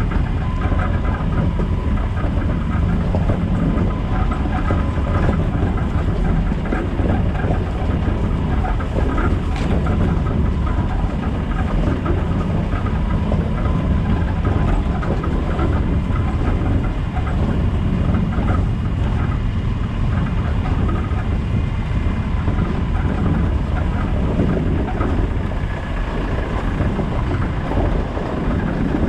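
Land Rover Discovery 200Tdi four-cylinder turbodiesel running as the 4x4 drives off-road: a steady, loud low rumble with rattles and road noise, and one sharp knock about nine and a half seconds in.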